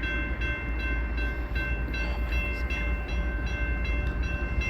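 Freight train rolling through a grade crossing: a steady low rumble from the passing cars, with the crossing bell ringing quickly and evenly over it.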